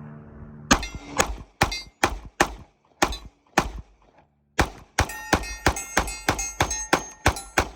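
A .45 ACP pistol fired in a string of sharp shots: about seven spaced over the first four seconds, then about eleven in quick succession. The later shots carry a ringing tone, the sound of a steel target plate being hit.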